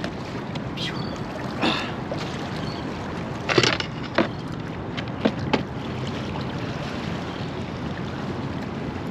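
Steady wind and water noise around a kayak on the sea, with about six short knocks or splashes in the first six seconds.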